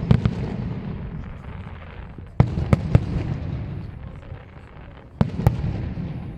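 Professional fireworks display: aerial shells bursting with sharp bangs in clusters, one group at the start, three about two and a half seconds in and a pair near the end, with a low rumbling echo rolling on between them.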